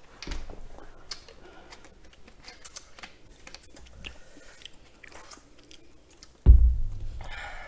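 Close-miked chewing and small mouth and handling clicks of people eating. About six and a half seconds in, one heavy low thump, the loudest sound, fades out over about a second.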